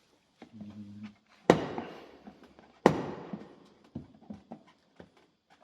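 Rubber toilet plunger pulled off a car body panel: two sharp pops as the suction breaks, about a second and a half apart, each trailing off, with small knocks between them.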